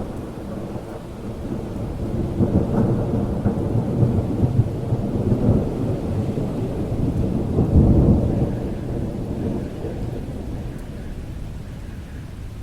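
A long roll of thunder over steady rain: the rumble builds over the first couple of seconds, peaks about eight seconds in, then dies away.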